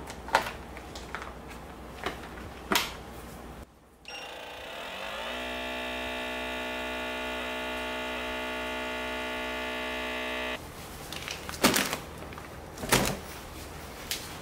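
A few light clicks and knocks, then a small electric motor spins up with a rising hum and runs steadily for about six seconds before cutting off abruptly, followed by more knocks.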